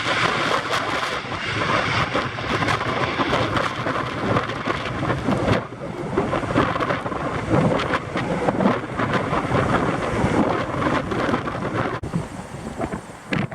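Strong gusty wind buffeting the microphone: a loud, rough roar that swells and drops unevenly, falling away sharply twice.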